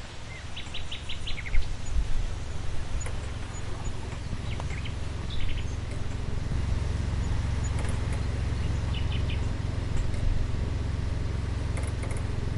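Small birds chirping in short quick runs of notes, a few times, over a steady low rumble that builds up in the first second.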